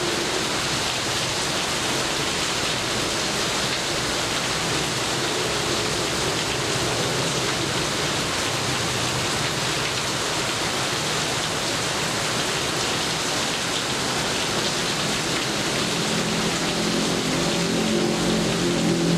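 Steady rain falling, an even hiss. In the last few seconds a low engine hum builds underneath it, like a vehicle approaching.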